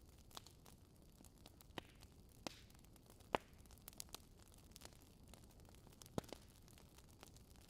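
Burning wood logs in a fireplace crackling: a faint steady hiss with scattered sharp pops, about eight in all, the loudest a little under halfway through and a close pair near the end.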